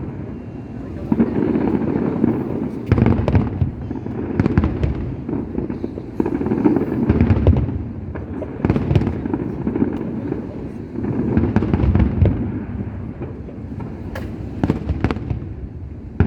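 Aerial fireworks bursting one after another: repeated low booms about every second or two, with sharp cracks and crackling among them.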